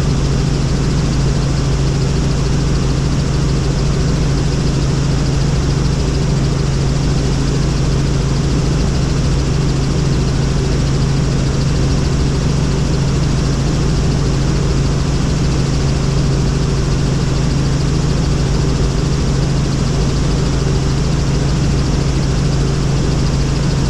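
Helicopter in flight: a loud, steady drone of rotor and engine with a strong low tone that does not change.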